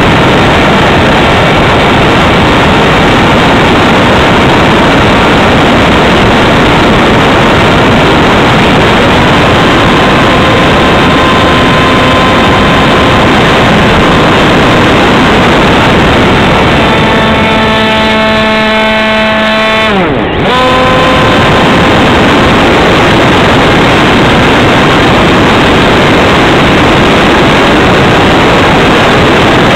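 Loud wind rush on an onboard wing camera's microphone as a Radjet 800 RC plane flies, with the steady whine of its electric motor and pusher propeller under it. About twenty seconds in, the motor's whine stands out more clearly, then swoops down sharply and briefly dips before the wind rush returns.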